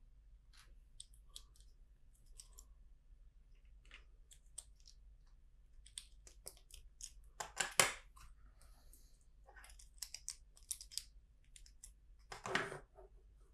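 Plastic LEGO bricks being handled and pressed together: a scattering of small clicks and taps, with two louder clattering clusters, one near the middle and one near the end.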